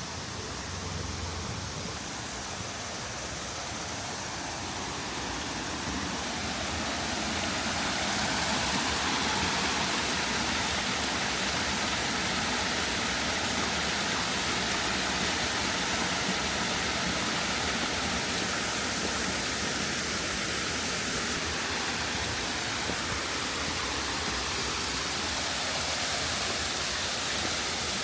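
Waterfall rushing steadily, a dense even roar of falling water that grows louder a few seconds in and then holds.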